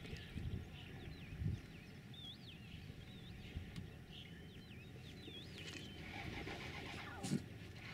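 Birds calling with repeated short, looping whistled notes. A few low thumps come through, and from about six seconds in a rapid buzzing rattle joins them.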